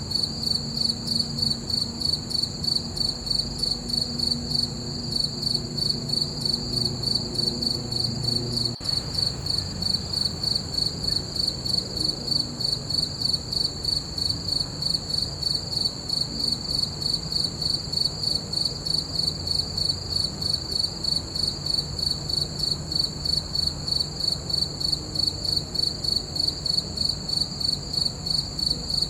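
Crickets chirping: a steady high-pitched trill that pulses evenly, about twice a second.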